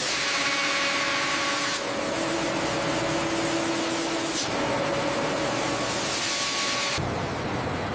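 Steady hissing noise with faint humming tones under it. Its character shifts abruptly about every two to three seconds.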